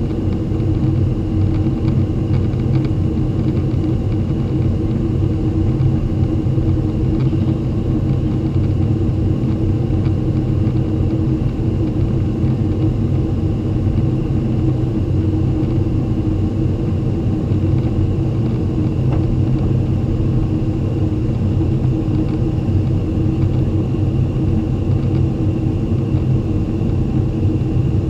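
Boeing 767-300 climbing out after takeoff, its twin jet engines making a loud, steady drone with a low rumble and a faint high whine, heard from inside the passenger cabin.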